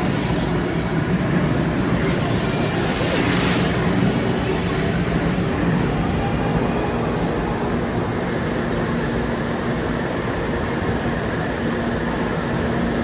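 500 series Shinkansen train moving out along the platform, a steady rumble of wheels on rail with motor hum.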